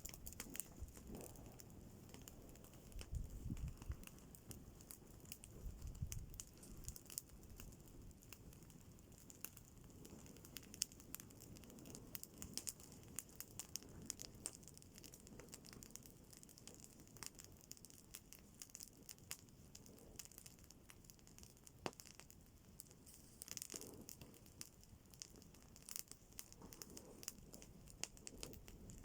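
Faint campfire crackling: scattered small pops and clicks, with a few soft low thumps in the first few seconds.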